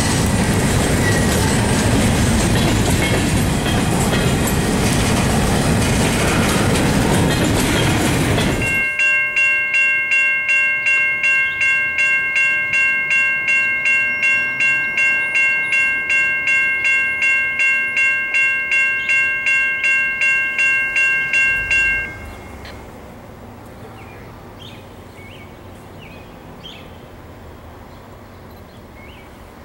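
A freight train of covered hopper cars rolls past close by, its wheels clattering over the rail joints. After an abrupt cut about nine seconds in, a railroad crossing bell rings at a little over two strikes a second. It stops about two-thirds of the way through, leaving quieter background with a few faint bird chirps.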